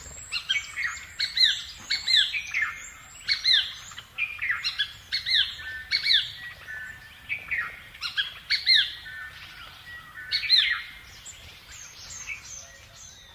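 Birds chirping: quick, overlapping calls that sweep down in pitch, repeating every second or so and thinning out near the end.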